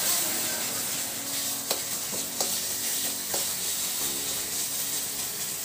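Onion, ginger-garlic and tomato paste sizzling steadily in hot oil in a metal kadai, being fried down (bhuna) while a metal spatula stirs and scrapes it, with a few sharp taps of the spatula against the pan.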